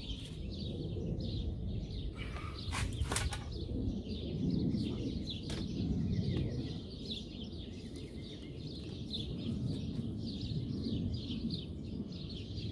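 Small birds chirping steadily over a low background rumble, with a few sharp clicks about two to three seconds in and again a little later.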